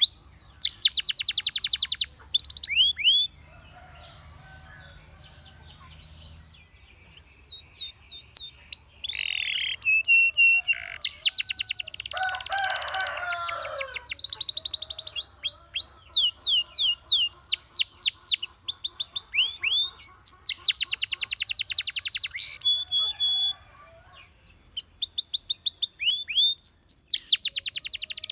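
Canary singing: fast trills of rapidly repeated notes and series of sweeping whistled notes. The song breaks off for about three seconds after the first phrase and briefly again near the end.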